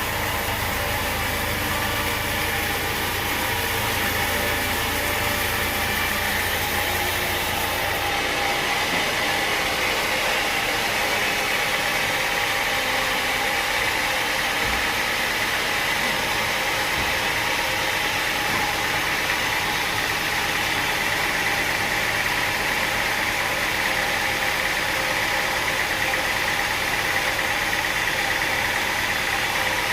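Sawmill machinery running steadily: a continuous engine-like drone with a steady high whine. The sound changes abruptly about eight seconds in.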